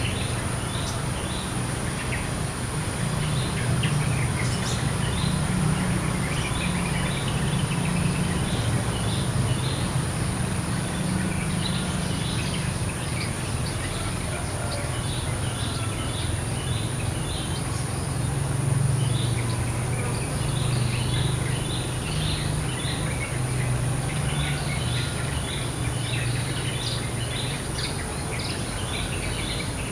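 Wild birds chirping and calling, with quick short chirps repeating throughout. Under them run a steady high whine and a low steady hum.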